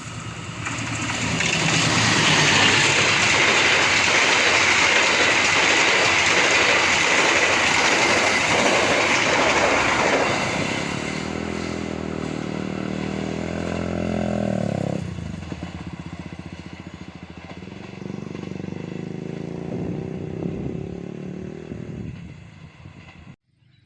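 Train passing close by: loud rushing rail noise for about the first ten seconds, then a quieter run with a steady pitched tone that stops abruptly about fifteen seconds in. The sound cuts off suddenly near the end.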